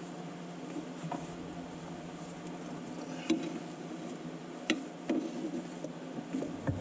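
A few sharp metallic clinks and knocks, from hands and tools working on a mower's drive-belt pulley, over a steady low hum.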